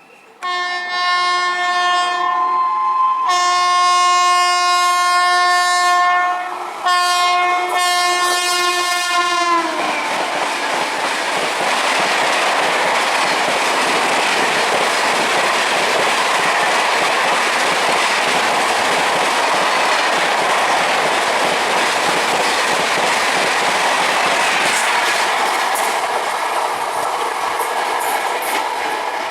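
Train horn sounding two long blasts, the second dropping in pitch at its end as the train draws level, then the steady noise of the train running past.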